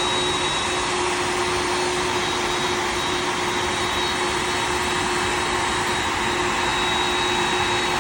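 Boeing 747 jet engines running steadily: a constant rushing roar with a steady high whine over it, holding level with no change in pitch.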